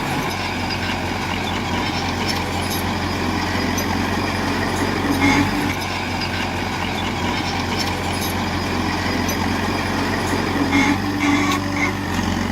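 Heavy diesel construction machinery running steadily under load. Brief higher-pitched whines rise over it about five seconds in and again near the end.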